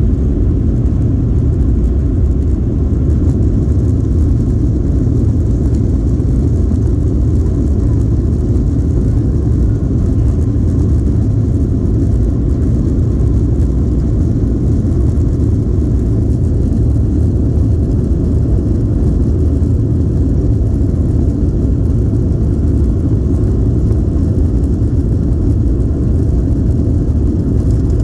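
Airliner passenger cabin noise: a steady low rumble of the jet engines and airflow, heard from inside the cabin.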